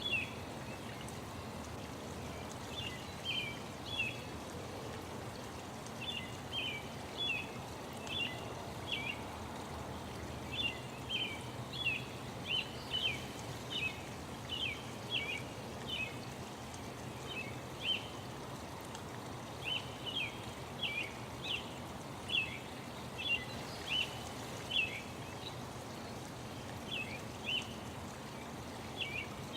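Songbirds chirping in short, quick calls, dozens of them and closest together in the middle, over a steady rushing background noise.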